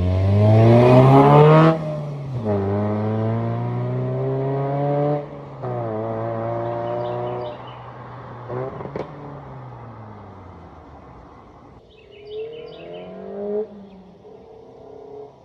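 Honda Fit Sport GD3's 1.5 L VTEC four-cylinder engine accelerating hard, its exhaust and intake note climbing in pitch, dropping sharply twice at what sound like upshifts, then easing off and falling away to a quieter run with a couple of short blips near the end.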